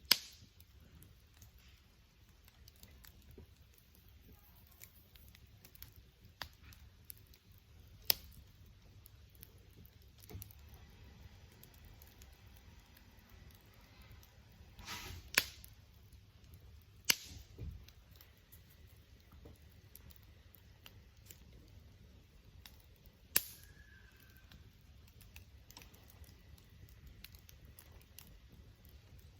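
Wood fire crackling, with about half a dozen sharp pops at irregular intervals standing out over fainter snapping and a low steady rumble.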